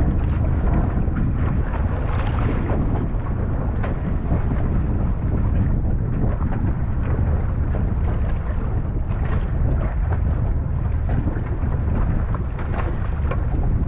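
Wind buffeting the microphone on a small boat at sea: a loud, steady low rumble with scattered knocks and clicks through it.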